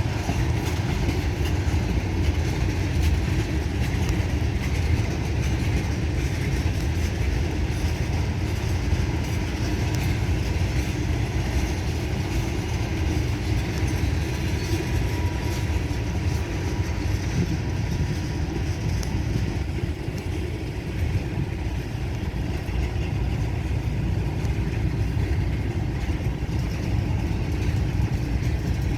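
Freight train rolling slowly past, about 10 mph, as a steady low rumble of cars on the rails.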